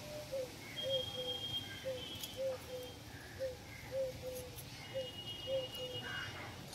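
A bird calling in a steady series of short, low hooting notes, about two a second. A thinner, higher tone sounds briefly twice.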